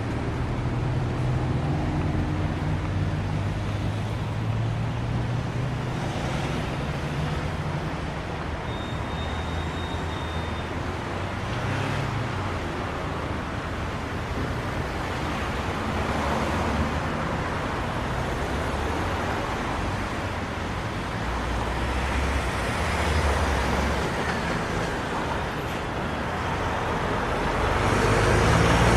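Road traffic noise: a steady rush of passing vehicles with a low engine rumble, growing louder near the end.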